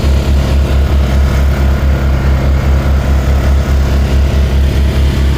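Boat engine running steadily, with a low throb that pulses about four times a second.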